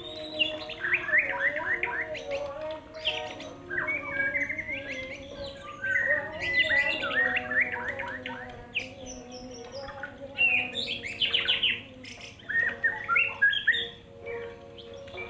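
Caged songbirds singing: rapid, varied phrases of chirps and whistles, one after another with short pauses between them.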